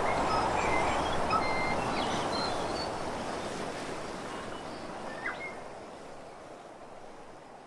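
Outdoor ambience with a steady broad rush and a few short, high bird chirps scattered through the first few seconds, the whole fading out slowly.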